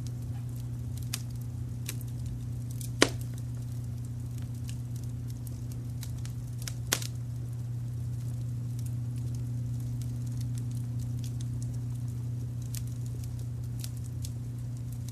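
Wood fire crackling with scattered small snaps and two louder sharp pops, about three and seven seconds in, over a steady low rumble of brown noise.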